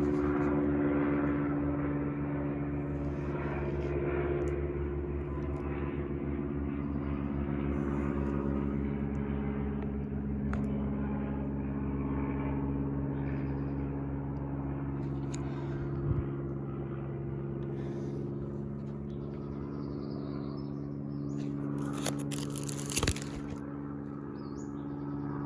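Steady low hum of an idling engine, with a brief rustle and click near the end.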